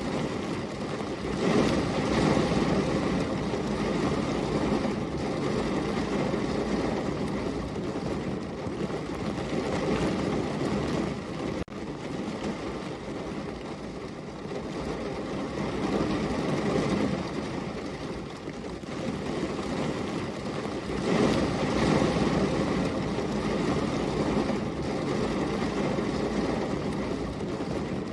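Steady heavy rain, a dense rushing hiss with a deep body that swells and eases in slow waves.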